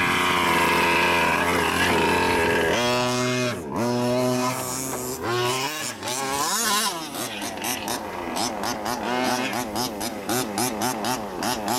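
Small two-stroke petrol engine of a Losi 5T large-scale RC truck, running at high revs, then dropping and revving up and down. From about the middle on it is blipped in quick repeated throttle bursts.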